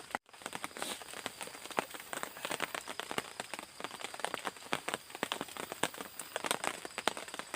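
Rain falling, with many close drops ticking irregularly on a nearby surface over a steady hiss. There is a brief break in the sound just after the start.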